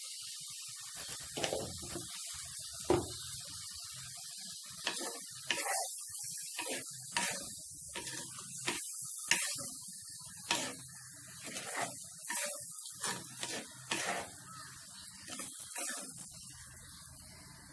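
Sliced mushrooms, capsicum and onion frying in a clay pot with a steady sizzle, while a spatula stirs them, scraping and knocking irregularly against the pot's sides.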